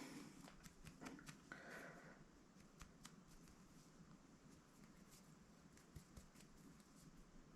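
Near silence with faint scattered clicks and soft rustling from fingers pulling apart and fraying the fibres of a cotton macrame cord tassel.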